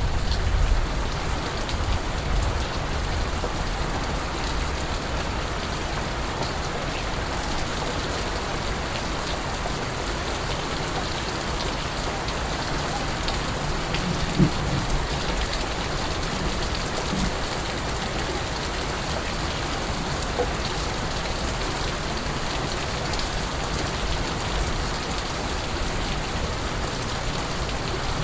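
Steady rain falling on hard surfaces, with scattered individual drips ticking through it. A brief low thump comes about halfway through.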